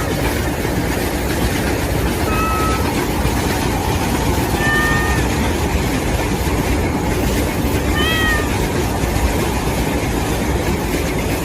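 A kitten meowing three times in short, high calls over the steady whirring of a battery-powered toy Thomas train running.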